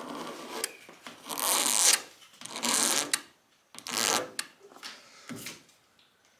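Razor blade scraping across hardened automotive clear coat in about five short strokes, shaving down a paint run.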